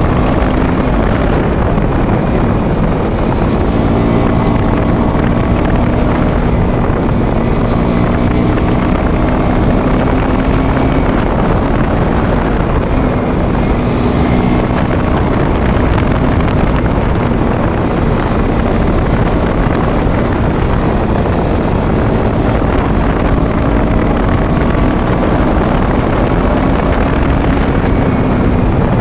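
Motorcycle engine running while riding at a steady cruise, its note drifting slowly up and down with the throttle, under heavy wind noise on the microphone.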